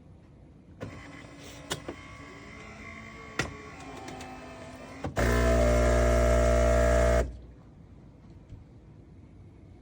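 Philips 3200 automatic coffee machine at work: a few clicks and light mechanical sounds, then a loud, steady buzz for about two seconds that cuts off abruptly.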